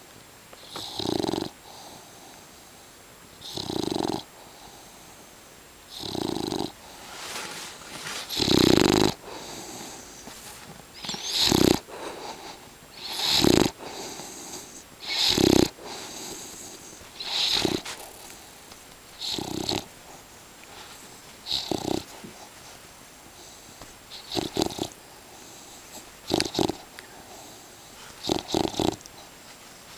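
English bulldog snoring, one loud snore about every two seconds, with a few coming as quick doubles near the end. The snoring is typical of the breed's short, flat-faced airway.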